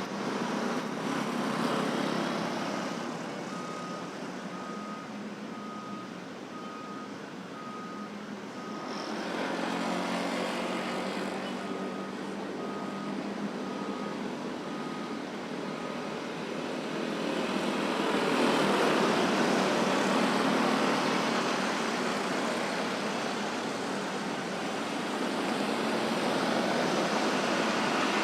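Road traffic at a busy intersection: a steady wash of engine and tyre noise that swells as vehicles pass close. For about twelve seconds, starting a few seconds in, a high beep repeats at a little more than once a second, of the kind a reversing alarm gives.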